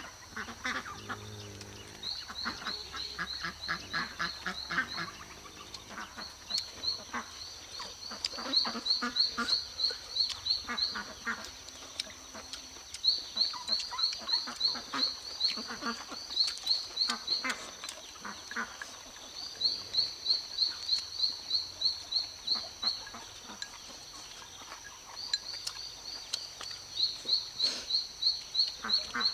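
Night chorus of frogs and insects: a steady high insect drone, with bouts of rapid chirping trills about every six seconds and scattered croaking pulses underneath.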